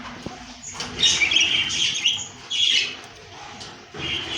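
Small caged parrots chirping and squawking in several short, high bursts.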